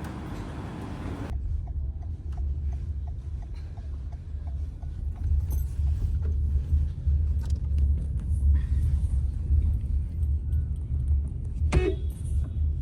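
Steady low road rumble of a car heard from inside the cabin while driving. A run of light, evenly spaced ticks, about three a second, comes in for a few seconds near the start, and one short, sharp sound comes near the end.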